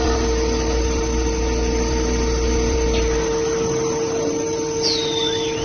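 CNC wood-turning lathe running with a steady whine over mechanical noise. A low rumble drops away about three seconds in, and a short falling whistle comes near the end.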